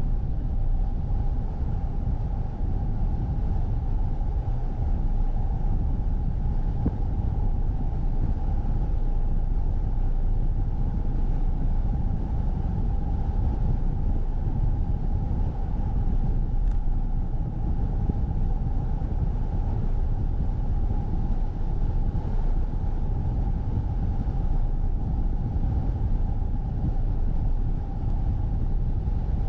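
A car driving on a snowy road: a steady low rumble of tyres and engine with a constant mid-pitched hum over it.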